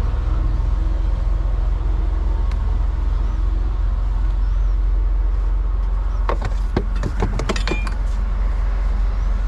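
Semi-truck diesel engine running with a steady low rumble. About six seconds in, a quick run of clicks and knocks lasting under two seconds.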